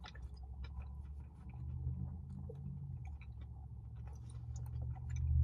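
A man chewing a big mouthful of crispy fried chicken sandwich: soft, irregular mouth clicks and squishes, with a low hum underneath.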